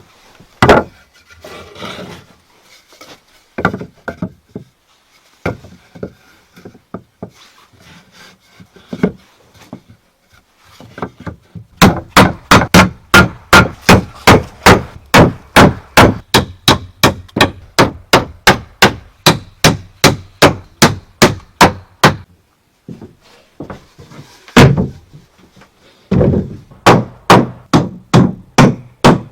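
Wood being knocked and rubbed, then a long run of sharp, even blows on wood at about three a second, stopping for a couple of seconds and starting again near the end.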